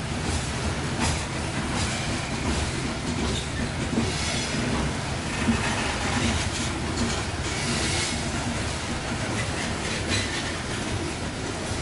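Cars of a long coal train rolling past, wheels clacking over the rail joints amid a low rumble, with some wheel squeal.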